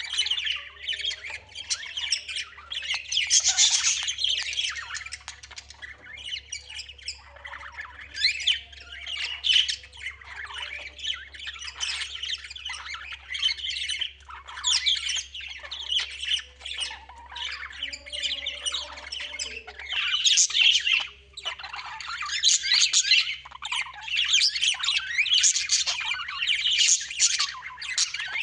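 Birds calling continuously in a dense, overlapping chorus of high chirps and calls, with only brief lulls.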